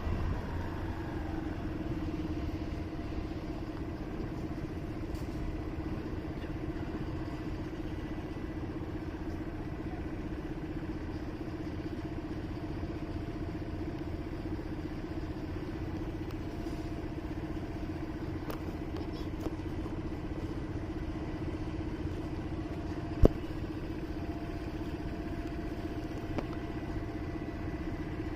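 Motorcycle engine, heard from the rider's position, dropping in pitch as it slows in the first second, then running steadily with a low rumble, typical of idling at a stop. A single sharp click or knock comes late on.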